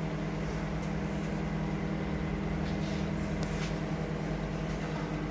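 Microwave oven running with a steady hum, a steak cooking inside it; a few faint crackles come through over the hum.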